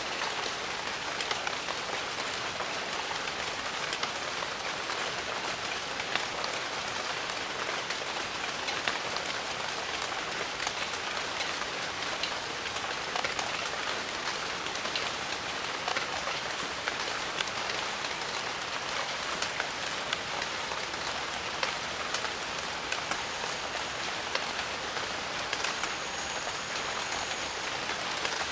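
Steady jungle rain, a dense patter of drops over an even hiss. A faint, thin, high tone comes and goes near the end.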